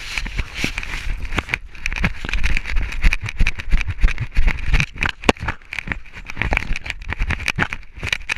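Sound picked up by an action camera worn by a running dog: a rapid, irregular run of knocks and scuffs from footfalls and the jostling mount, over a low wind rumble on the microphone.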